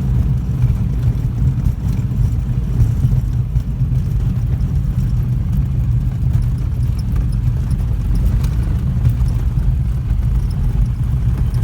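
Robin DR400 Regent's four-cylinder Lycoming engine running steadily at low power during the landing roll, a constant low drone with an uneven, bumpy rumble.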